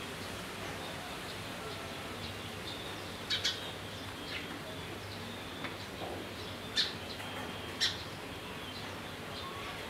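Outdoor ambience of a steady hiss with a few short, sharp bird chirps: a pair about three and a half seconds in, then single chirps near seven and eight seconds.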